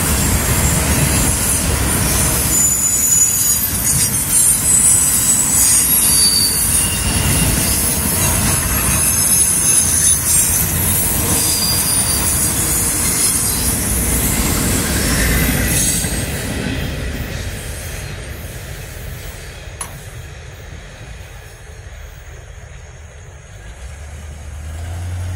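Freight train cars rolling past on the rails, with high-pitched wheel squeal over the rumble. About 16 seconds in the last cars go by and the sound dies away to a quieter rumble, and near the end a low steady hum of idling road vehicles' engines comes in.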